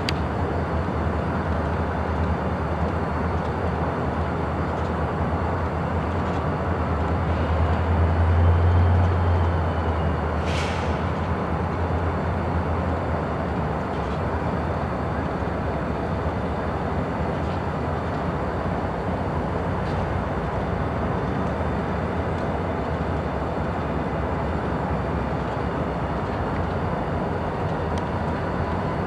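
Diesel locomotive running with a steady low rumble, which swells for a couple of seconds about eight seconds in. A short hiss comes about ten seconds in.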